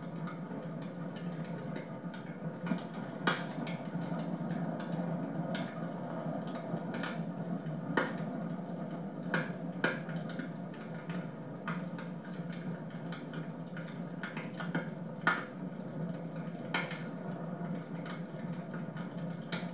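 Wood fire in a fireplace crackling: irregular sharp pops and snaps over a steady low background, a few of them louder.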